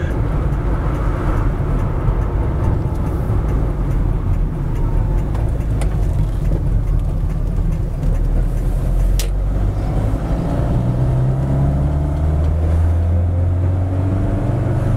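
Classic 1989 Mini's A-series four-cylinder engine and road noise heard from inside the small cabin: a loud, steady drone for the car's speed of about 30 mph. About nine seconds in there is one sharp click, and over the last few seconds the engine note rises as the car pulls.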